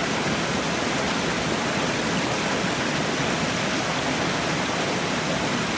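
Falling water rushing in a steady, unbroken stream, an even hiss across all pitches with no change in level.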